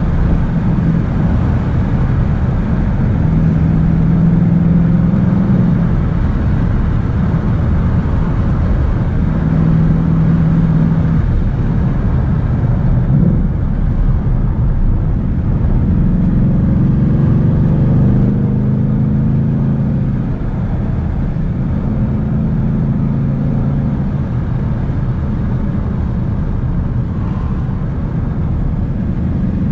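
Ford Mustang GT's 5.0-litre V8 heard from inside the cabin at moderate road speed, its note rising and falling with the throttle over steady tyre and road noise. About halfway through comes a short rev blip as it changes down from fourth to third.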